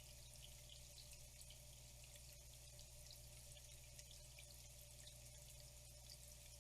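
Faint flowing water: a steady trickle with many tiny drips and splashes.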